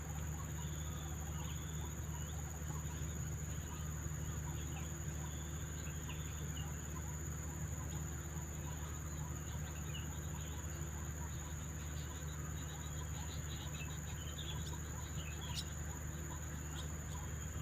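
Swiftlets twittering with many short, high chirps as they hawk insects, over a steady high insect drone.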